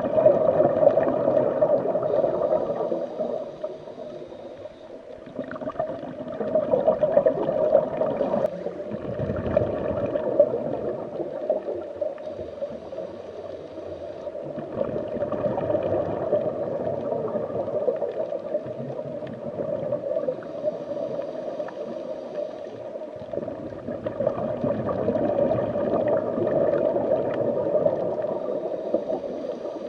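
Underwater water noise: a steady rushing, gurgling sound that slowly swells and fades several times.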